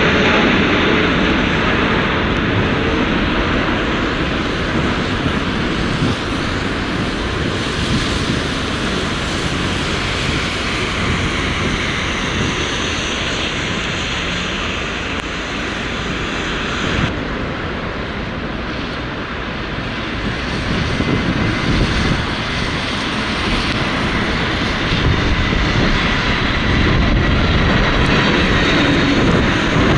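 Jet airliner engines running as an aircraft passes, a steady loud rush with faint whining tones that slowly glide in pitch. Strong gusty wind buffets the microphone underneath.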